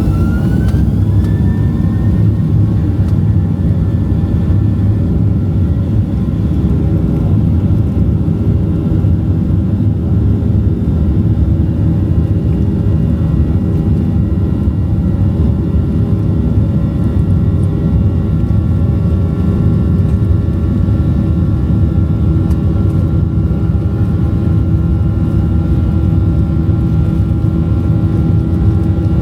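Boeing 737-700's CFM56 jet engines running, heard inside the cabin as a loud, steady low rumble with a steady whine over it; the whine rises in pitch and settles in the first second or two.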